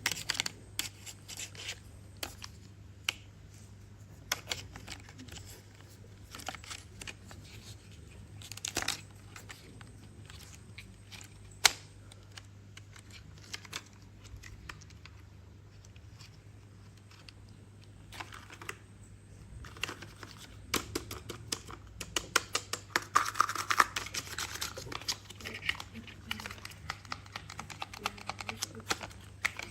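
Plastic toy being handled: scattered sharp clicks and taps with short bursts of rustling, over a faint steady low hum. The clicks turn into a dense, busy clatter about two-thirds of the way through.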